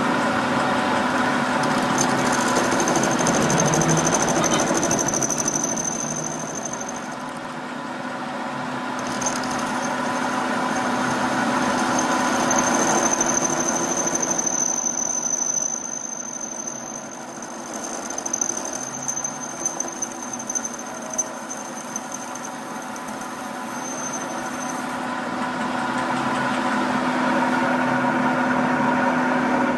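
A machine running steadily with several steady tones, joined by a high-pitched whine that drops out briefly and stops a few seconds before the end.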